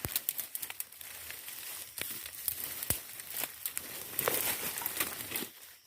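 Dense grass rustling and crackling as it is pushed aside and trampled, with irregular sharp snaps; it dies away just before the end.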